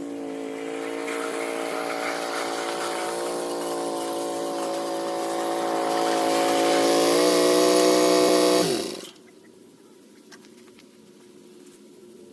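An engine running steadily and growing louder, stepping up slightly in pitch, then shut off about nine seconds in, its pitch falling as it winds down.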